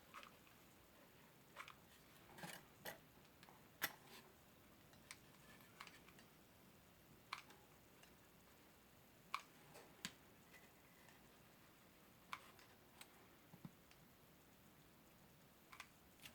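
Near silence with scattered faint clicks and light taps, irregularly spaced, from handling styrofoam plane parts while they are being hot-glued together.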